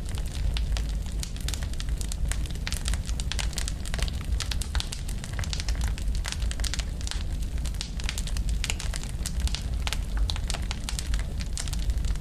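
Wood fire burning with a steady low rumble and frequent sharp crackles and pops from the burning wood.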